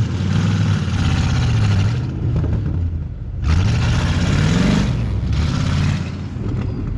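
Truck engine revving hard in two surges, its pitch climbing on each, with a rushing noise over each surge as it tries to pull through deep snow.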